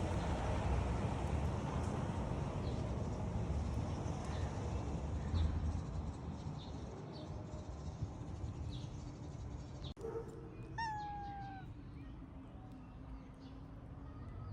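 A domestic cat meows once, a single slightly falling call lasting under a second, about eleven seconds in, over a steady low rumble.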